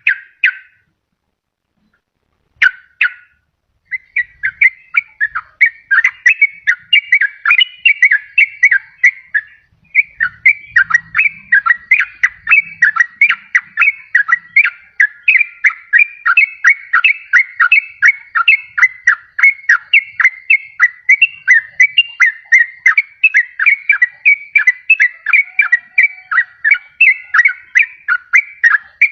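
Yellow-vented bulbul (trucukan) singing: two short calls, then from about four seconds in an unbroken run of fast, bubbly notes, several a second, the rapid rolling song used as a lure call.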